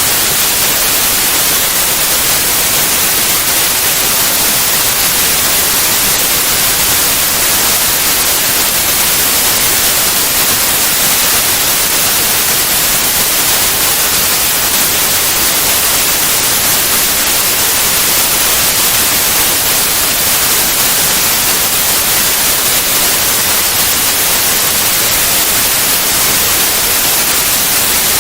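Synthetic white noise: a loud, even, unchanging hiss with its energy strongest in the high frequencies.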